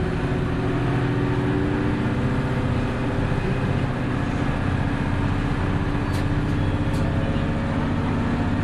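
Hino Blue Ribbon City hybrid bus (BJG-HU8JLFP) under way: a steady diesel engine and drivetrain drone with road noise. Two short clicks come about six and seven seconds in.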